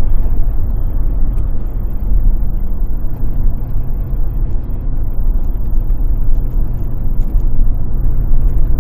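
Highly modified Porsche Boxster's flat-six engine running hard on a track lap, heard from inside the car as a steady, loud, low rumble mixed with wind and road noise.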